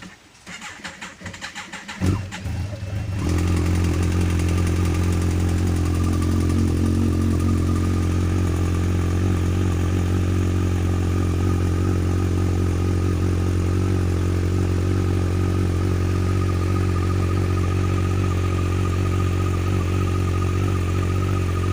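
Motorcycle starter cranking the engine haltingly for about three seconds, the battery barely able to turn it over in the cool +8 °C, before the engine catches and settles into a steady idle.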